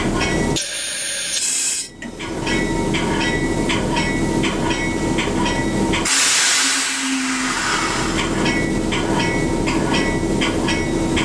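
Train running with a steady hum, and a short high-pitched pulsing that repeats about twice a second. The sound changes abruptly twice, about half a second in and about six seconds in.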